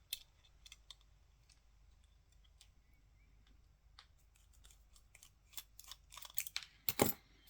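Small sharp clicks and ticks of a small screwdriver on a screw and on the metal parts of a Canon EOS 5D camera being taken apart, sparse at first, then a quick cluster near the end with the loudest knock about seven seconds in.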